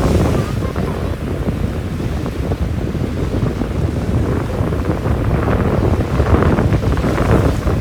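Wind buffeting the microphone in a steady low rumble with irregular gusts, over the wash of surf.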